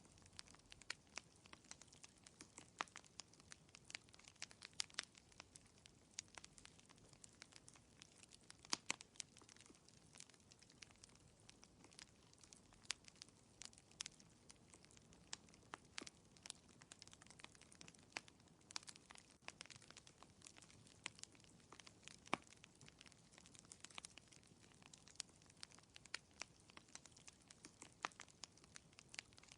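Wood fire crackling in a fireplace: irregular sharp pops and snaps, several a second, over a faint hiss.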